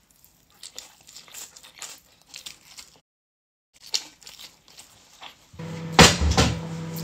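Soft chewing and mouth sounds of someone eating rice by hand, broken by a brief total dropout of the audio. About five and a half seconds in a steady hum starts, and a loud thump comes just after, followed by a smaller one.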